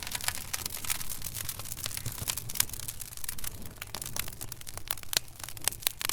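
Wood fire crackling in a fireplace: a dense run of irregular pops and snaps over a low, steady rumble of the flames.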